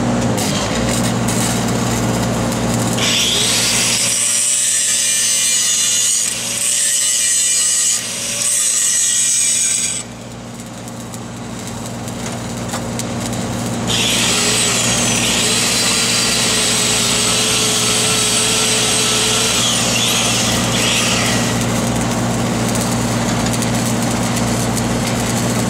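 Engine-driven welding machine running steadily, with two harsh, hissing spells of about seven seconds each from metalwork on the pipe joint. The two spells are split by a quieter gap of a few seconds.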